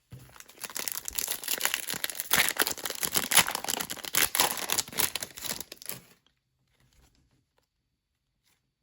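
A trading-card pack's foil wrapper being torn open and crinkled: a dense, crackling rip that stops about six seconds in.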